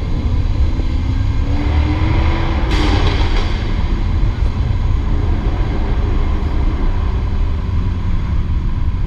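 Jaguar F-Type R's supercharged 5.0-litre V8 accelerating, its note rising over the first three seconds, with a brief burst of rushing noise about three seconds in; the engine then runs on steadily under the low rumble of the drive.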